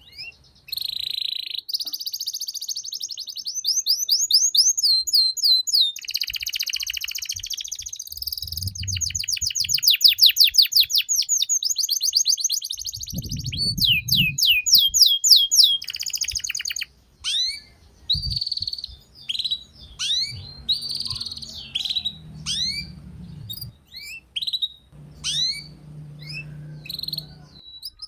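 Domestic canary singing a long, varied song. The first half is rapid high trills and rolls. The second half breaks into separate quick chirps that sweep downward, over a faint low hum.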